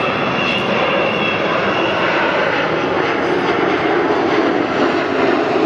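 Avro Vulcan XH558's four Rolls-Royce Olympus turbojets running loud as the delta-wing bomber flies past. A high whine near the start fades as the deeper engine rumble builds.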